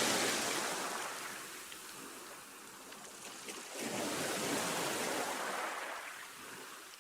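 Sea waves washing onto the shore: one wave's wash fades away, then a second wave breaks about four seconds in and ebbs.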